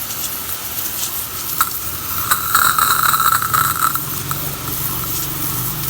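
Coin-operated power-wash pressure washer running, its water jet spraying with a steady hiss and a steady whine, louder between about two and four seconds in.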